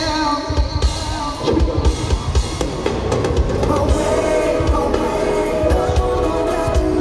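Live pop band music with a steady drum-kit beat under sustained instrumental notes.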